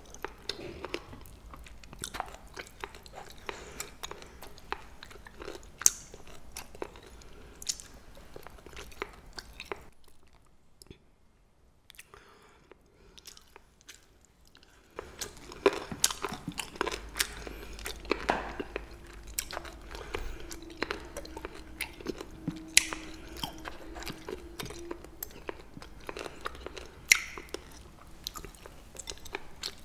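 Close-miked chewing and crunching of crisp blanched green-onion rolls (pa-ganghoe), with sharp crisp snaps. The chewing eases off about ten seconds in, and a fresh bite about fifteen seconds in starts another round of crunching.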